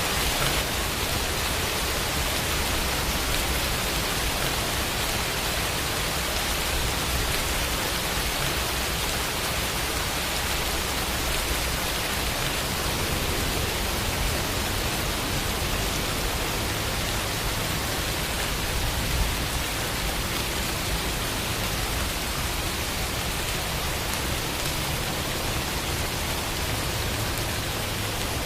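Steady rain falling, a dense even hiss with some low rumble and no single drops or other sounds standing out.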